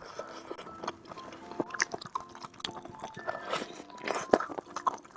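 Close-miked chewing and biting of food: a steady run of short, sharp mouth clicks and crunches, over soft background music.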